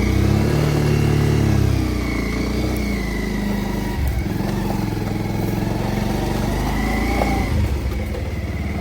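Kawasaki motorcycle engine running, revved up briefly in the first couple of seconds and then settling to a steady run.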